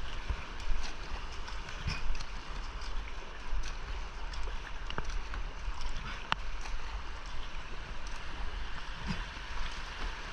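Rushing whitewater of a creek rapid, a steady hiss of moving water, with scattered short splashes and knocks as a kayak is paddled through it.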